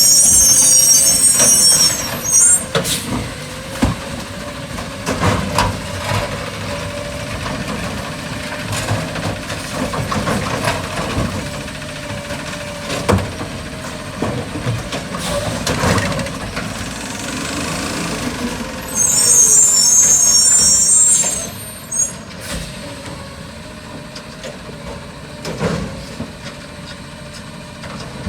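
An Autocar garbage truck running, with scattered knocks and clanks. Two loud bursts of air-brake hiss come, one at the very start and one about 19 seconds in.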